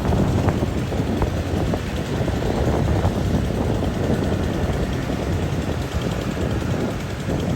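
Rice combine harvester running steadily while harvesting, its engine and machinery making a continuous low noise, with wind buffeting the microphone.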